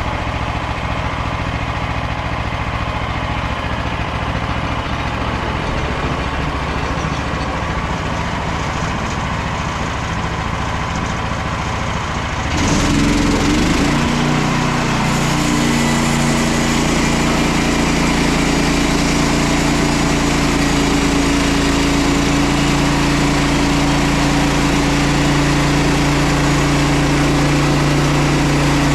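Petrol engine of a Frontier OS27 portable bandsaw mill running steadily. A little under halfway through the sound turns suddenly louder and settles into a steady hum, as the engine changes to a higher, working speed.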